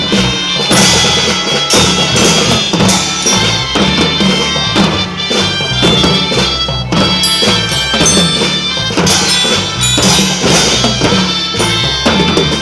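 Children's marching band playing a tune on sustained pitched instruments, with drums keeping a steady beat.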